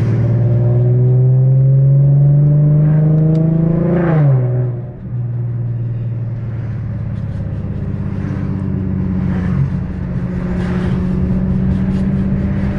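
Car engine under way, its pitch climbing steadily for about four seconds of acceleration, then falling sharply and settling into a steady, lower drone.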